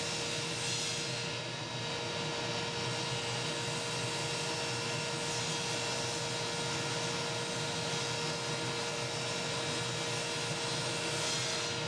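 Table saw running steadily, a constant whine over a rushing noise, with the blade tilted to an angle for bevel-cutting the slats of a curved chair back.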